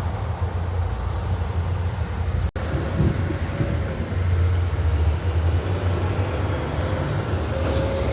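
Heavy road traffic, with truck engines running as a steady low drone. The sound cuts out for an instant about two and a half seconds in.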